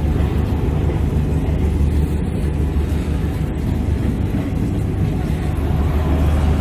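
Mithilanchal Express passenger coaches rolling past close by, a steady low rumble.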